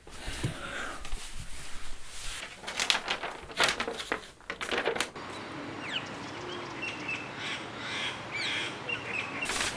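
Birds calling over a steady outdoor hiss, with short chirps and falling calls in the second half. Several brief bursts of noise come in the first five seconds.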